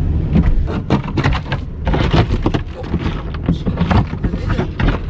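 Ice scraper scraping ice and snow off a minivan's window in quick irregular strokes, over a low steady engine rumble.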